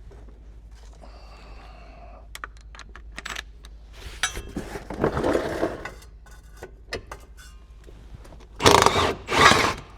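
Tools working the bolts of a car's gearbox mount brace: scattered clicks and metal knocks, a louder stretch of tool noise about halfway through, and two loud short bursts near the end.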